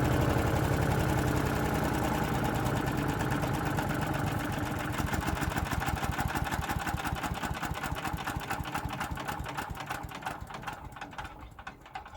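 Champion 224cc wood chipper's single-cylinder engine switched off and spinning down: its strokes slow and grow further apart while the sound fades away over about ten seconds, with the heavy chipper rotor coasting to a stop.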